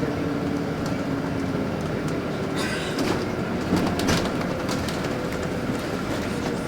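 Cabin sound of a LiAZ 5292 low-floor city bus under way: a steady engine and drivetrain hum over road noise, with a few short rattles from the body partway through.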